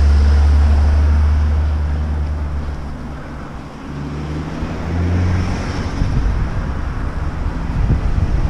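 A Mini Cooper passing close by, its engine hum loud at first and fading away over about three seconds; a second car's engine swells and fades about four to five seconds in. Wind buffets the microphone throughout.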